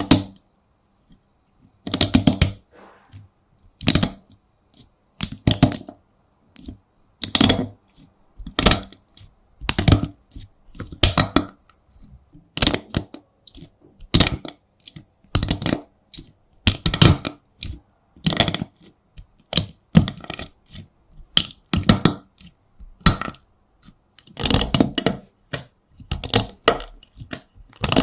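Hardened wax cracking and crunching as it is pressed and broken, in short crisp bursts about once a second.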